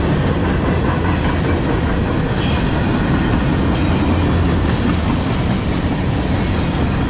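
Freight train's double-stack container well cars rolling past close by, a steady rumble of steel wheels on rail. Brief high wheel squeals come about two and a half and four seconds in.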